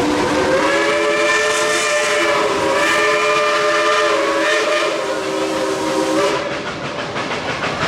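Steam locomotive's whistle blowing one long chord blast, its pitch shifting slightly a couple of times before it cuts off about six seconds in, over the hiss and rumble of the moving train.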